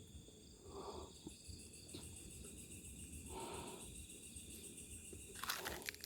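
Two breaths close to the microphone, about a second and three and a half seconds in, over steady night insects such as crickets chirring; a few sharp crackles of rustling or steps near the end.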